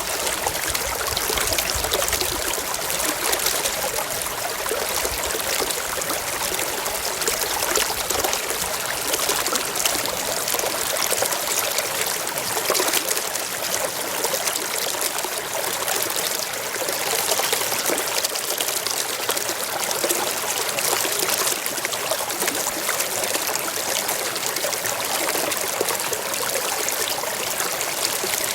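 Shallow stream running and trickling over rocks, a steady, even rush of water with fine splashy flicker.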